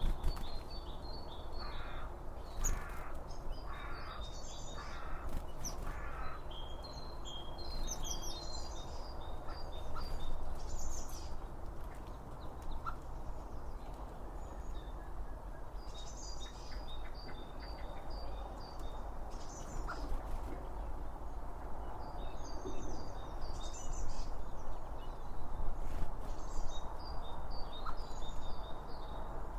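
A crow cawing about five times in the first six seconds. Small birds chirp high and scattered throughout, over a steady low background rumble.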